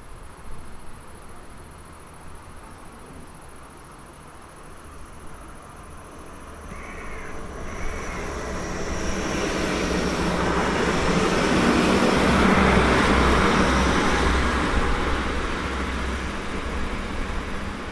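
A train passing: its noise swells over several seconds, peaks with a rhythmic low beat from the wheels, then fades. A bird calls twice as it approaches.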